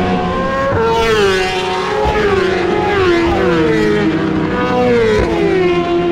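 1000 cc superbike racing motorcycles on track at high revs, the engine pitch sliding down and jumping back up several times as they go by.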